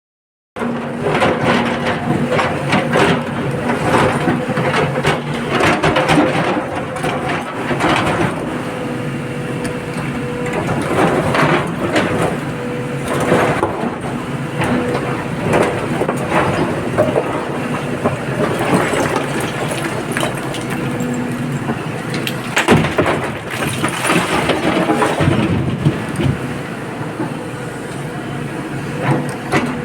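Heavy diesel engine of an excavator running steadily under load, with repeated crashes and clanks of rock and earth loaded into a tipper truck.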